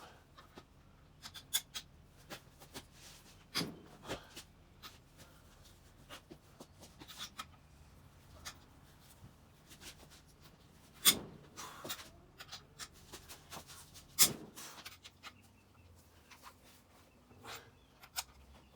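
Scattered clicks and metallic knocks of hand tools and engine parts being handled during an engine teardown, at irregular intervals with a few sharper knocks.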